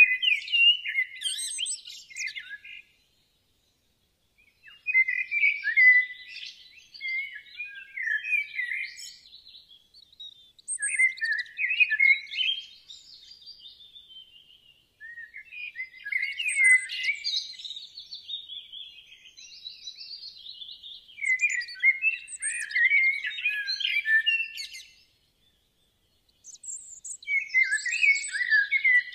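A songbird singing: repeated phrases of quick, varied chirps and trills, each lasting a few seconds, with short pauses between them.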